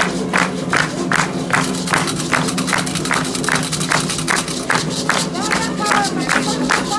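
Candomblé ritual drumming for Xangô on atabaque drums, a steady beat of about three strokes a second, with voices singing over it and a rising and falling vocal line near the end.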